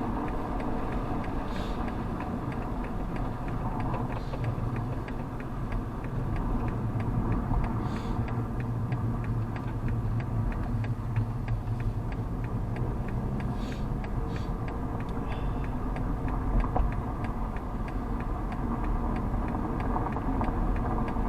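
Police car engine running as heard from inside the cabin while driven on a track, a steady low rumble with a fast, even ticking through it.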